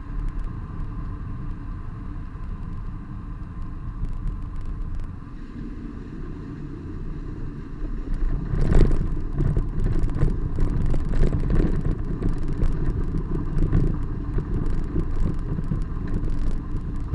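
Running and road noise of a Renault Laguna II 3.0 V6 on the move, heard from under the car: a steady low rumble that grows louder and rougher about halfway through, with many quick knocks and rattles.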